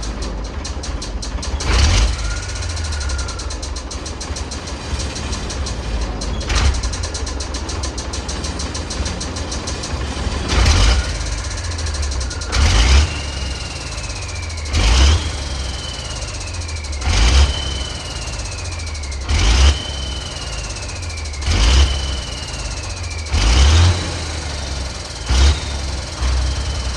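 Ford D-series 1314 truck's turbocharged engine running steadily, with a sharp loud burst now and then. From about ten seconds in the bursts come about every two seconds, each followed by a whistle that falls in pitch.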